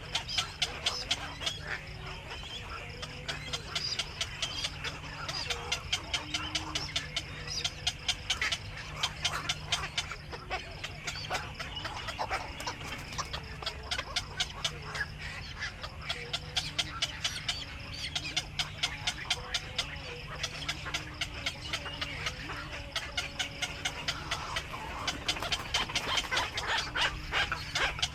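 Black-crowned night herons calling at the nest: a rapid clicking chatter, several ticks a second, with short low calls that rise and fall.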